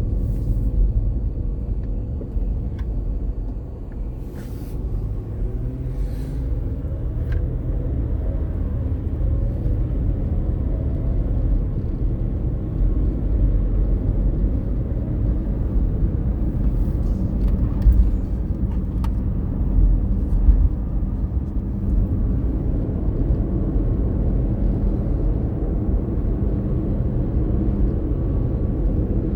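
Steady low rumble of a car on the road, with a few faint clicks scattered through it.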